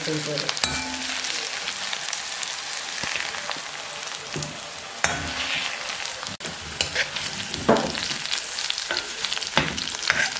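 Ivy gourd frying in oil in an iron kadai with a steady sizzle, while a steel spoon stirs and scrapes against the pan a few times as the pieces are scooped out.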